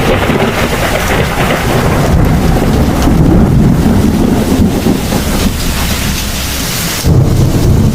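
Heavy thunderstorm: thunder rumbling over steady rain, swelling a few seconds in and again near the end.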